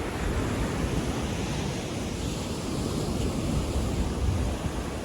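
Ocean waves washing up on a beach, heard as a steady rush of noise, with wind buffeting the microphone.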